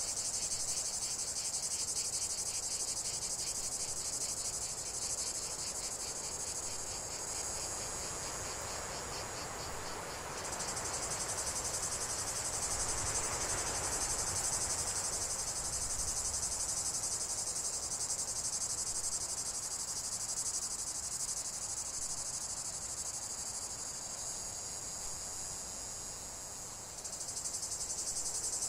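A dense chorus of crickets chirping in a steady, high, pulsing trill, dipping briefly near the end. A soft rush swells and fades in the middle.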